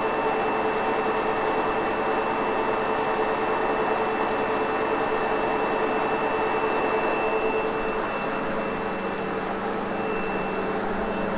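Sebo X8 upright vacuum cleaner running steadily over carpet, a whooshing motor noise with a steady whine; its tone shifts lower about eight seconds in.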